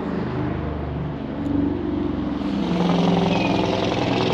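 A car engine running, its note rising and growing louder about two-thirds of the way in.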